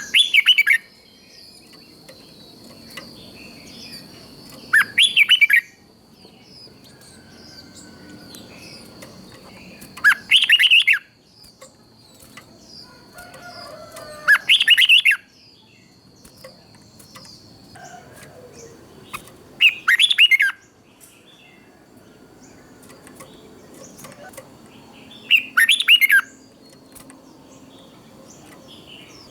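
Red-whiskered bulbul singing short, loud, warbled song phrases, six in all, about one every five seconds with quiet in between.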